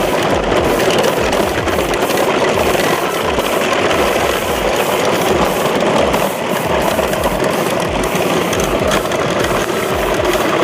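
A small motor running steadily, with a fast, even low rattle.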